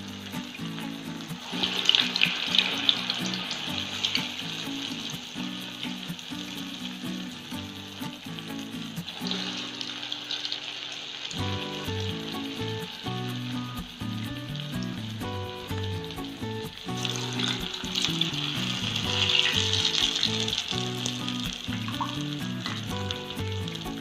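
Medu vada (urad dal fritters) deep-frying in hot oil, a steady sizzle that grows louder about two seconds in and again for a few seconds after the middle. A backing tune with steady low notes plays underneath.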